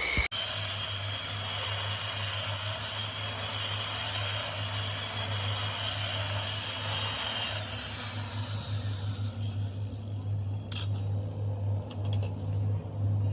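A power tool working metal makes a steady rough rubbing, grinding noise over a low hum. The noise fades about seven and a half seconds in, leaving the hum and a few light clicks.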